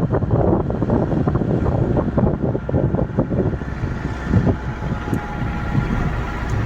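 Wind buffeting the microphone: a loud, uneven low rumble that never settles, over a steady low hum.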